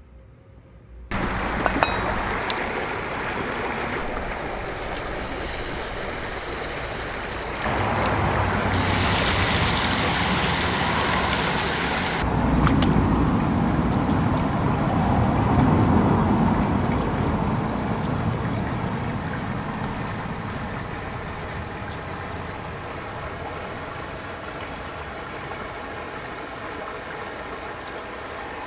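Running water, like a stream, a steady rushing noise that changes abruptly several times.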